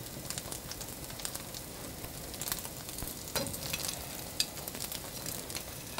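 Egg-coated tikoy (sweet sticky rice cake) frying in oil in a skillet: a steady sizzle with scattered pops and crackles.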